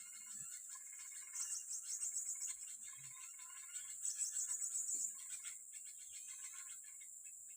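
Insects chirping in high-pitched, rapid pulsed trains lasting a second or two each, with faint lower chirps among them.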